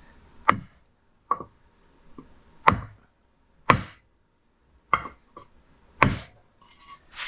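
Hammer blows on metal, about six separate strikes roughly a second apart, each with a short ring, knocking a seized part out of an ATV's rear wheel knuckle.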